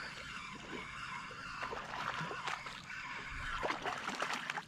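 Water sloshing and splashing at a fishing kayak, with scattered small knocks and clicks, while a hooked fish, taken for a big trout, is fought to the boat.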